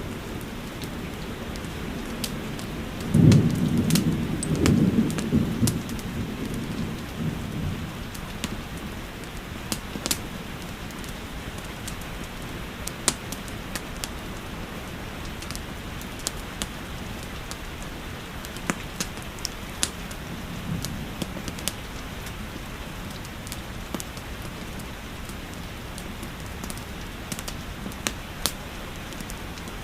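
Steady rain with scattered sharp crackles and pops from a wood fire. A low rumble of thunder swells about three seconds in and lasts a few seconds, the loudest part, with a fainter rumble again around twenty seconds in.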